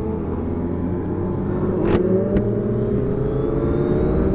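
Suzuki Hayabusa's engine pulling under steady acceleration while riding, its pitch rising slowly, over a low rumble of wind and road. Two sharp clicks come about two seconds in.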